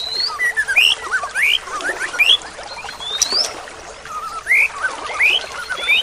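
Several small songbirds chirping, with short, quick, upward-sweeping chirps that come in clusters and overlap one another.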